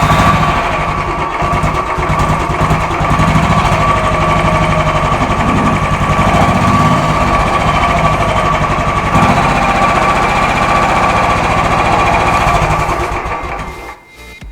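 Royal Enfield 350's single-cylinder four-stroke engine idling just after starting, run briefly to warm the engine oil so it thins before draining. The sound fades away near the end.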